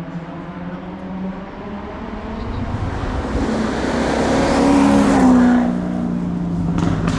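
Hillclimb race car passing at speed. The engine grows louder as it approaches, is loudest about five seconds in, then drops in pitch and fades as it goes by.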